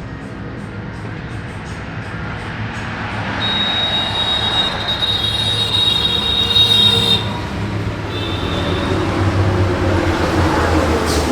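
A motor vehicle running, with a high, thin squeal from about three and a half to seven seconds in and a shorter one about a second later.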